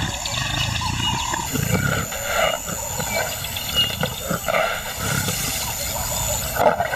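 Lion vocalising in a series of low, repeated calls spaced roughly a second apart.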